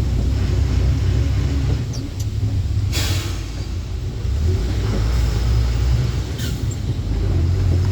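Truck engine and road rumble while driving, a steady low drone, with a short hiss about three seconds in and a fainter one a little past six seconds.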